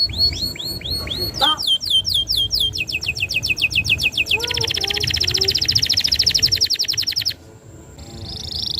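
Domestic canary singing a long song of repeated down-slurred notes that speed up into fast rolling trills. The longest trill runs about three seconds and breaks off suddenly about two-thirds of the way in. After a short pause, a new trill starts near the end.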